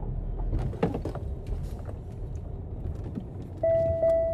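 Steady low rumble with a few faint knocks. Near the end comes a loud, steady electronic beep lasting about a second, broken briefly once.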